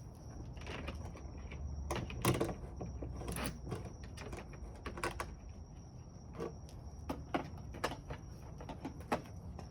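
Scattered knocks, clunks and clicks of tools and containers being handled and moved about at irregular intervals, the loudest a little over two seconds in.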